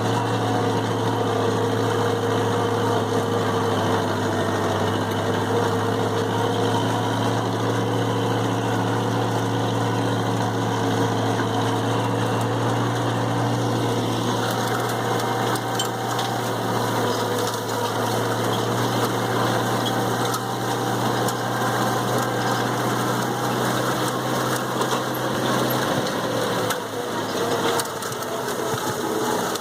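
Massey Ferguson 165 gas tractor engine running steadily while pulling a hay tedder, with the tedder's mechanical clatter mixed in. Near the end the steady engine note drops away and the sound changes.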